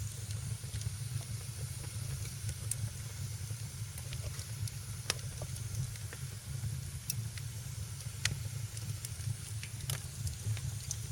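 Wood fire burning in a fireplace: a steady low rumble and hiss with scattered sharp crackles and pops, a few louder ones about a third, half, three-quarters and nine-tenths of the way through.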